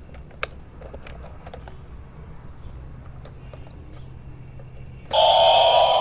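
Light clicks of a battery-powered toy helicopter being handled, then about five seconds in the toy switches on suddenly with a loud electronic sound carrying a slowly rising whine.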